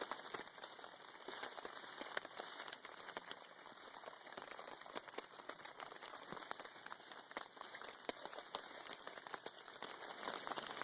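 Dense, irregular patter and crackle: rain falling on a tarp and a small campfire crackling.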